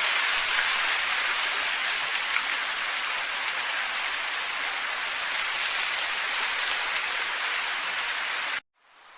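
Steady, even hiss of a wind ambience track. Near the end it cuts out suddenly to near silence, then fades back in, as at the splice of a looped recording.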